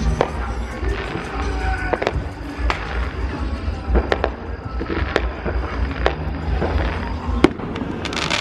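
Neighbourhood fireworks going off at irregular moments: a string of sharp cracks and pops over a low rumble, the sharpest about seven and a half seconds in. Music plays underneath.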